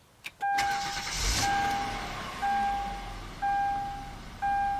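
2012 Kia Sorento SX engine starting from its push button: a click, a short crank, and it catches about half a second in and settles into a low idle. Over it, a dashboard chime sounds once a second, five times.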